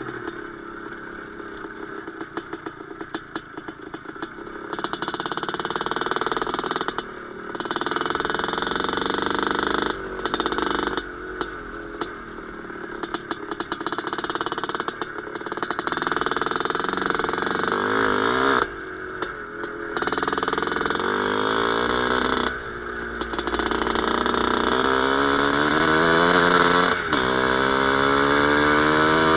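Two-stroke IZh Planeta Sport motorcycle engine running and revving. It breaks off abruptly several times, and its pitch climbs in rising sweeps over the last few seconds.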